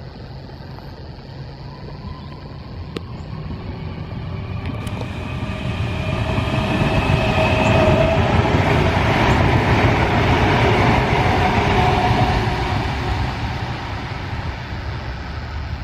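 Commuter train passing by: a rumble that builds for several seconds, peaks past the middle, then fades, with a whining tone over it.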